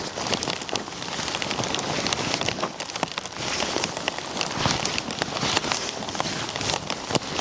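Steady heavy rain, with many individual drops striking close by as a dense run of sharp taps.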